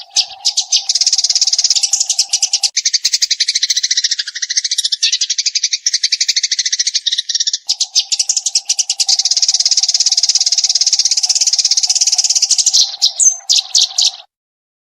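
Eurasian tree sparrow singing a long, dense run of rapid chattering chirps, fast notes repeated without a break, that stops abruptly about a second before the end. A steady low drone sits under the song during the first few seconds and again through the second half.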